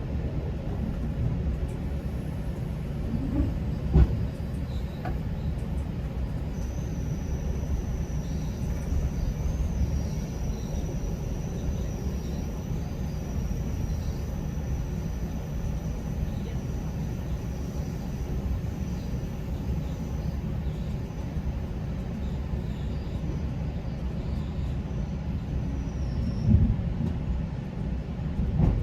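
GO Transit commuter train running along the track, heard from inside a coach: a steady low rumble of wheels on rail, with a thin high whine for most of it. A sharp knock comes about four seconds in and a heavier bump near the end.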